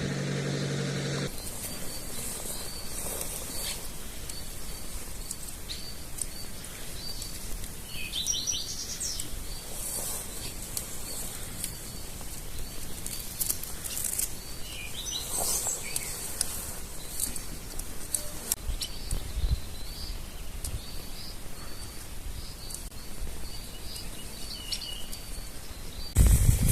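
Small birds chirping, with short repeated chirps and a couple of brief warbling phrases, over a steady outdoor hiss.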